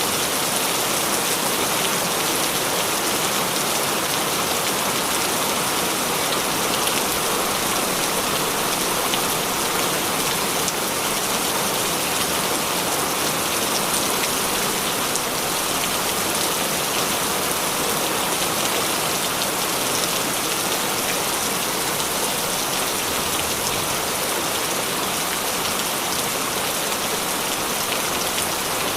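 Heavy rain falling steadily, an even hiss with scattered drops pattering on surfaces.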